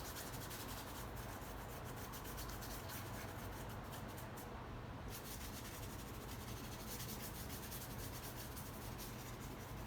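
Paintbrush stroking a glaze over a painting's surface: faint, continuous brushing with many small strokes.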